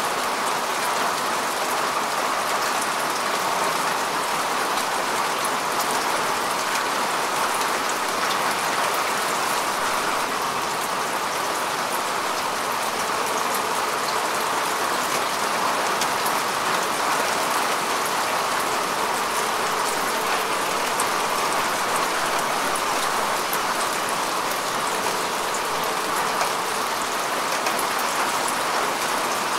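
Steady rain falling on grass and earth, a dense even patter of drops.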